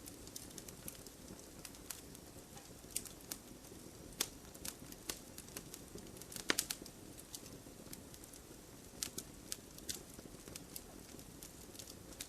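Burning firewood: irregular sharp crackles and pops over a low steady rumble of the flames, with a louder cluster of pops about halfway through.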